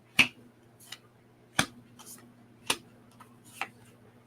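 Tarot cards being handled: a series of sharp snaps and taps, four strong ones about a second apart with fainter ones between, the loudest just after the start, over a faint low hum.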